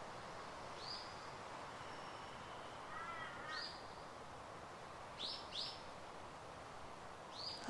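Birds calling, faint, over a steady background hiss: short high calls about a second in, a quick flurry of lower chirps about three seconds in, then two quick calls together about five seconds in and another near the end.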